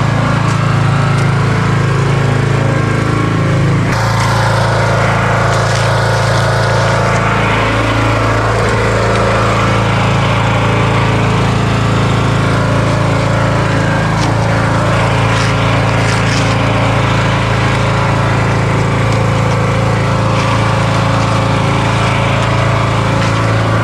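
Small engine running steadily at a constant speed, with a few faint clicks over it.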